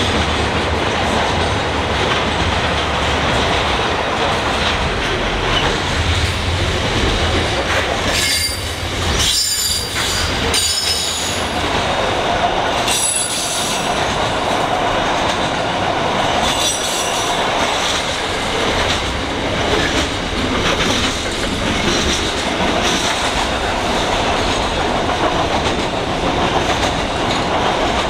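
Intermodal container freight wagons rolling past at speed: a steady rumble of wheels on rail, broken by several brief high-pitched wheel squeals in the middle.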